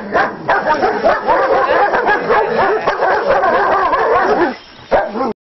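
A pack of German Shepherds barking and yelping together, many voices overlapping, dying down about four and a half seconds in.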